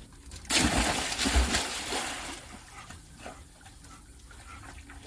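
Water splashing loudly for about two seconds, then quieter sloshing and dripping, as a dog moves through water.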